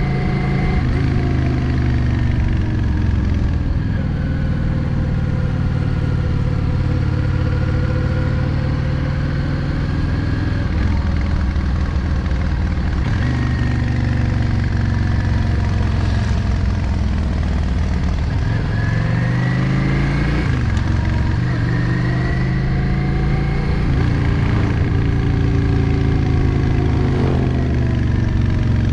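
Yamaha XVS 650 Drag Star's air-cooled V-twin engine running on the move, its pitch sinking and rising several times, with a quick drop and climb about twenty seconds in.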